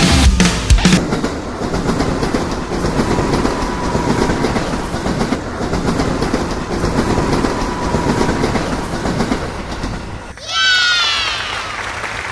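Passenger train running along the track: a steady rumble and rattle of the railway carriage. About ten seconds in it cuts off abruptly, and a loud high call follows whose pitch falls steeply.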